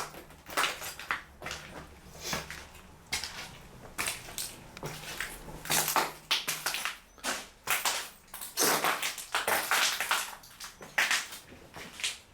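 Footsteps crunching through debris on the floor, about two steps a second.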